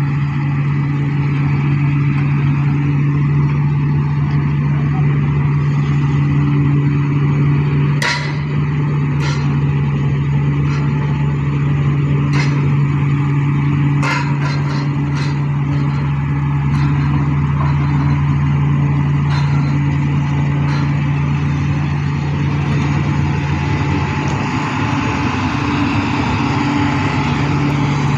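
Excavator-mounted vibro hammer and excavator engine running steadily with a strong low hum while extracting steel pipe piles. A series of sharp knocks comes between about 8 and 21 seconds in.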